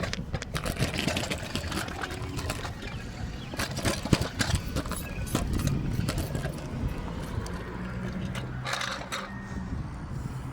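A motor vehicle engine running with a low rumble, with scattered clicks and knocks over it.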